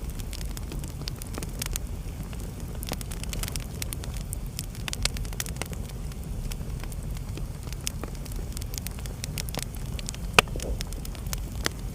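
Wood fire burning in a fireplace: a steady low rumble of flames with frequent irregular crackles and pops, one sharper pop near the end.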